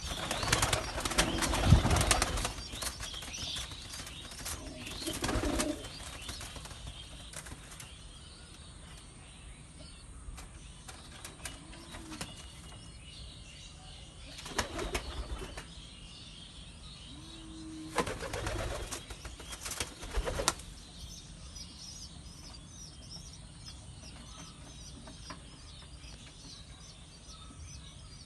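Pigeon wings flapping in several bursts: a long, loud flurry at the start, then shorter bursts spread through the rest, with quieter stretches between.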